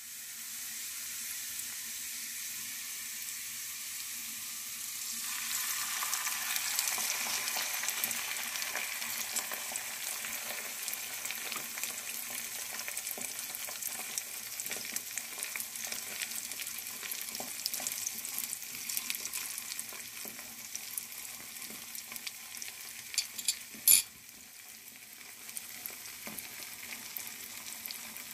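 Sucuk slices frying in hot oil in a pan: a steady crackling sizzle with scattered pops, which grows louder about five seconds in once the beaten eggs are in the hot fat. A few sharp clicks stand out near the end.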